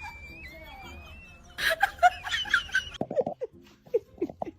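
Short bursts of laughter, with a few brief squeaky sounds after a break about three seconds in.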